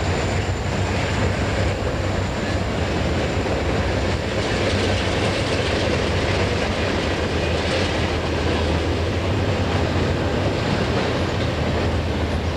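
Railroad train rolling past on the line, a steady noise of wheels on rail with a low, even hum underneath.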